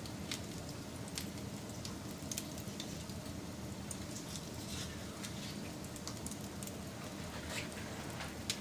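Wood fire burning with a steady low rush and scattered sharp crackles and pops, a few of them louder, about a second in, near two and a half seconds, and near the end.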